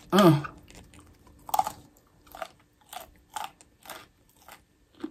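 A mouthful of crispy fried chicken sandwich being chewed with the mouth closed, the fried breading crunching in short bites about every half second. A short hummed vocal sound comes right at the start.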